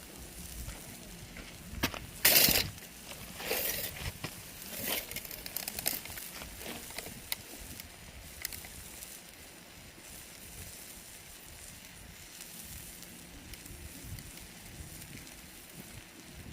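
Wood campfire crackling and popping, with a few louder bursts of noise in the first six seconds and scattered sharp pops after.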